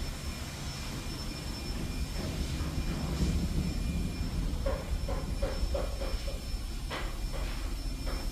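An 1100 hp tugboat's diesel engine running with a steady low rumble. About halfway through, a quick run of short sharp taps comes in, about four a second, followed by a couple of louder clicks near the end.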